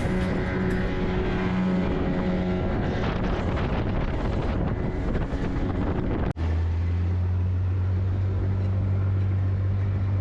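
Boat engine running steadily, with wind buffeting the microphone. About six seconds in the sound breaks off for an instant and a deeper, steady engine drone takes over.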